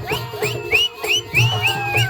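Live jakhadi (balya dance) folk music: a steady drum beat under a fast, high melody of short rising notes, about four a second, that shifts to longer held notes near the end.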